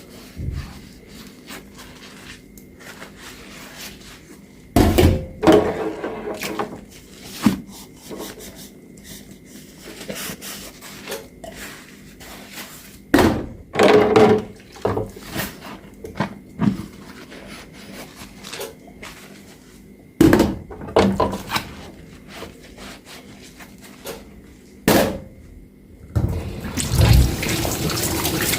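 Dishes being handled in a kitchen sink, clunking and knocking against each other and the basin every few seconds. Near the end the faucet is turned on and water runs steadily.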